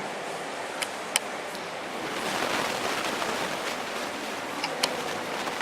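Steady hiss of room noise, swelling slightly partway through, with a few sharp clicks or taps.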